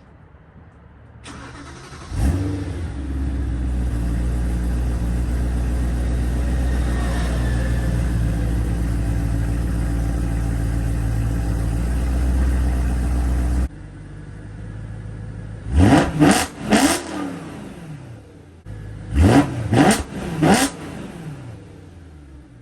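BMW E92 M3's V8, breathing through a catless X-pipe with no resonators and a Borla ATAK cat-back exhaust, fires up with a flare about two seconds in and then idles steadily. After an abrupt drop in level, it is revved in two quick sets of three sharp throttle blips.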